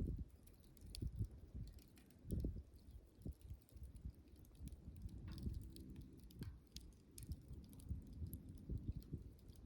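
Wood bonfire crackling, with scattered sharp snaps and pops over a low, uneven flutter of the flames.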